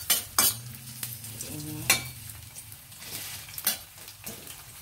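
Sliced onion sizzling in hot oil in a stainless-steel wok while a metal spatula stirs it, scraping and clinking against the wok. There are a few sharp clinks, the loudest about two seconds in. The onion is being sautéed until fragrant and wilted.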